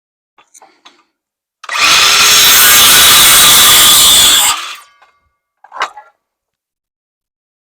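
Power saw cutting through a wooden rafter board for about three seconds, trimming about a quarter inch off, then stopping quickly. A short knock follows a second later.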